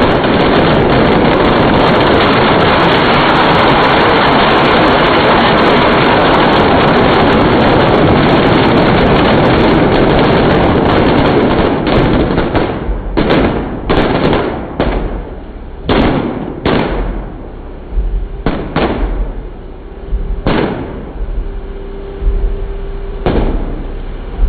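A long string of firecrackers going off in a rapid, continuous crackle for about twelve seconds, then thinning out into scattered single bangs.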